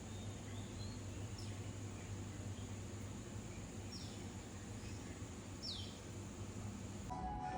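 Outdoor ambience: a steady high-pitched whine and a low hum, with three short descending bird calls spaced a couple of seconds apart.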